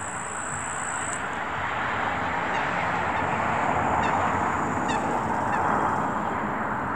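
Waterfowl honking in a dense, steady chorus that swells toward the middle, with a few faint higher calls.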